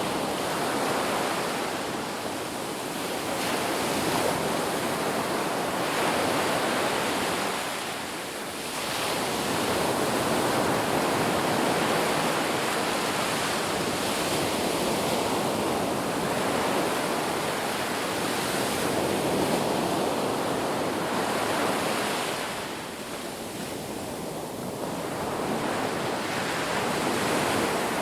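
Ocean surf on a beach: a steady rushing wash of breaking waves that swells and eases, with brief lulls about eight seconds in and again near the end.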